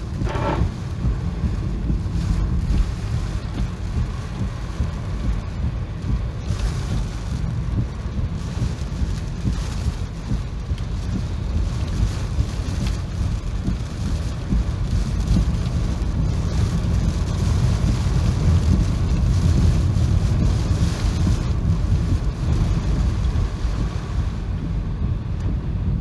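Typhoon wind buffeting the microphone: a heavy, continuous low rumble with a rushing noise on top that swells in gusts.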